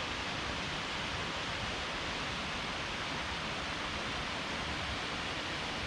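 Steady rush of falling water from a mountain waterfall, an even hiss that holds level throughout.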